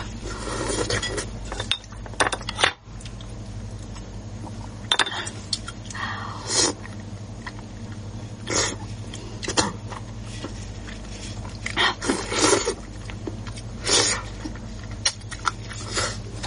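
Mouth sounds of someone eating, irregular bursts of chewing and slurping, with occasional clinks of tableware, over a steady low hum.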